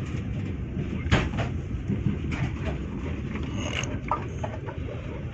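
Passenger train running, heard from inside the carriage: a steady low rumble, with a sharp knock about a second in and a few lighter clicks later.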